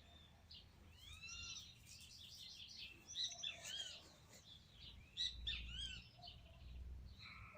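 Several birds calling and singing at once, short arching and swept chirps overlapping one another, with a faint low rumble in the background.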